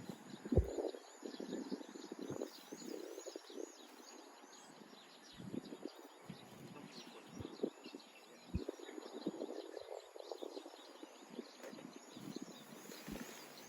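Camping gear being handled and packed: irregular rustling with scattered knocks and clunks, the sharpest about half a second in and again past eight seconds. High-pitched chirping runs on steadily in the background.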